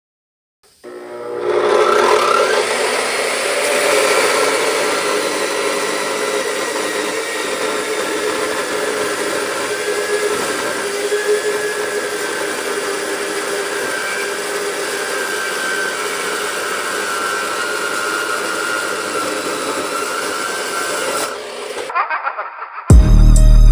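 Steel plate being cut with a power cutting tool, running steadily for about twenty seconds and stopping near the end.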